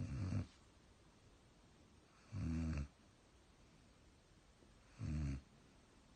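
German shepherd snoring: three short, low snores about two and a half seconds apart.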